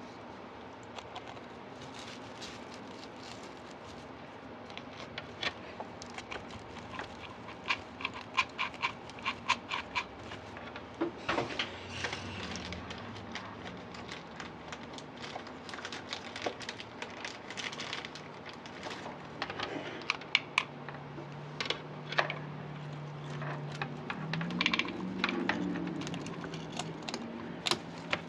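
Scattered light clicks and rustles of tinsel and ornaments being handled on a wreath during hot-glue repair. A low steady hum comes in about two-thirds of the way through.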